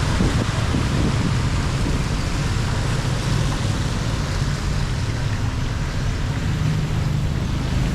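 Floodwater rushing steadily down a storm drain, a continuous loud wash over a low rumble.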